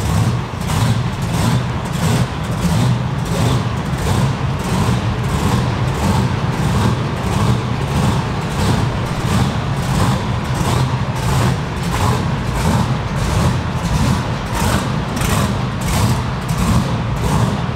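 Supercharged first-generation Chevrolet Camaro's big-cam V8 with an 8-71 Roots blower, running at a lopey idle as the car creeps along. The idle pulses unevenly, about two to three beats a second: the blower surge of a big camshaft.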